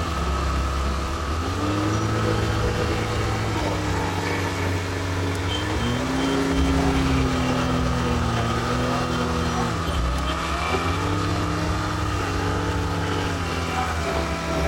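John Deere 410 backhoe's diesel engine running under working load, with a whining tone that rises and falls several times as the hydraulics are worked.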